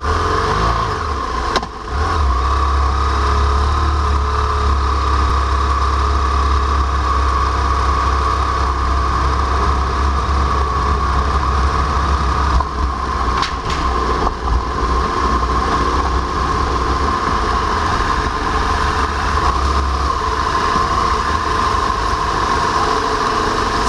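Motorcycle engine, likely the rider's BMW F800ST parallel twin, running steadily at low speed with a deep drone and a steady mid-pitched hum. There are a few brief knocks, one about two seconds in and a couple around thirteen seconds.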